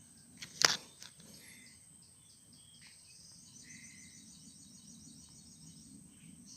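A single air rifle shot about half a second in: one sharp crack with a brief ring. After it, insects chirp in the background, with a rapid high trill in the middle.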